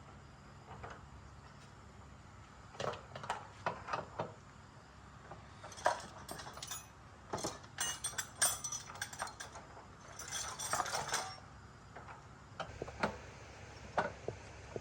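Metal tools and small metal parts clinking and knocking irregularly, with two short bursts of denser metallic rattling, over a steady low hum.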